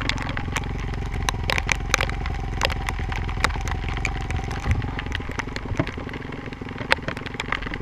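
Honda CRF450R dirt bike's single-cylinder four-stroke engine idling steadily, with many scattered sharp clicks over it.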